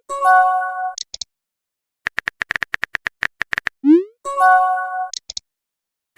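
Messaging-app sound effects: a chord-like notification chime, then a quick run of typing clicks at about ten a second for a second and a half. A short rising pop and a second chime follow as the next message appears.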